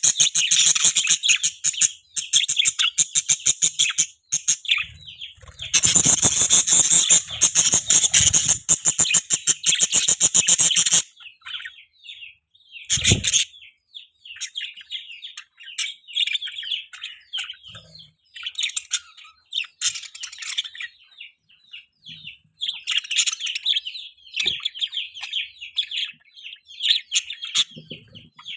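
Budgerigar chirping and warbling: fast, loud, unbroken runs of high chirps for the first ten seconds or so, then softer, scattered chirps and chatter. A short, loud burst comes about thirteen seconds in.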